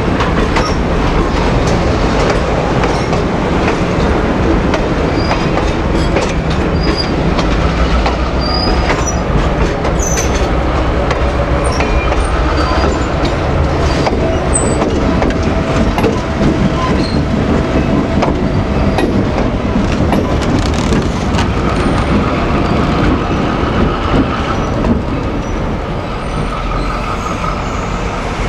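Train running along the track: steady wheel-on-rail rumble with clickety-clack over the rail joints and a faint thin wheel squeal.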